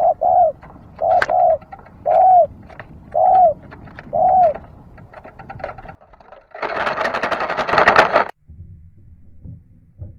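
Zebra dove cooing: a string of short arched coos, about one a second, for the first four and a half seconds. Later a loud burst of noise lasts about two seconds and cuts off suddenly.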